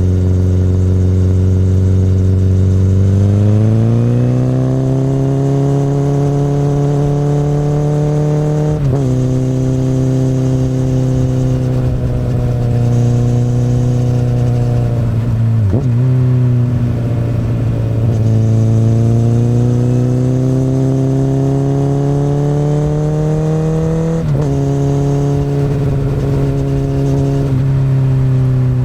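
Honda CBR1000RR's inline-four running through an Akrapovic exhaust under way, the revs climbing in long pulls with a sharp drop in pitch at each upshift, about nine seconds in and again near the end, and a short dip in the middle.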